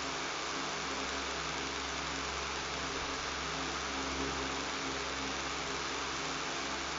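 Electric fan running steadily: an even whooshing hiss of moving air with a low buzzing motor hum underneath.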